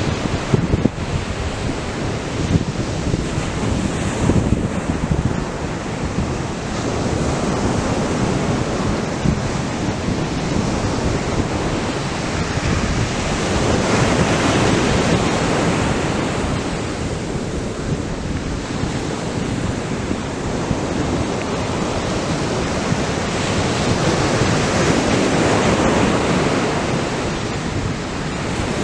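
Atlantic surf breaking on a sandy beach: a continuous wash of waves that swells louder and eases back every ten seconds or so.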